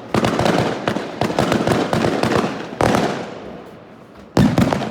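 Fireworks going off in quick succession: a loud bang just after the start, another about three seconds in and another near the end, each followed by a dense run of crackling pops.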